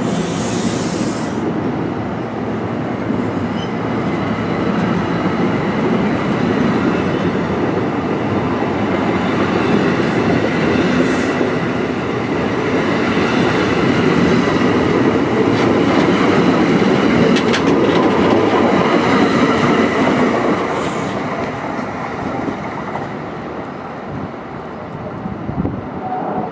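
Train rolling past on the rails: a steady rumble of wheels on track that builds and then fades away over the last few seconds.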